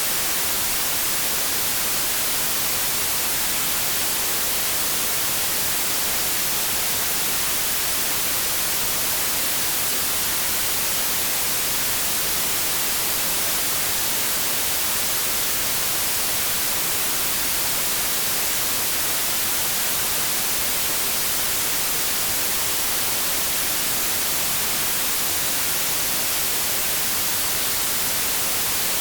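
Steady white noise: an even, unbroken hiss, brightest in the treble, that never changes.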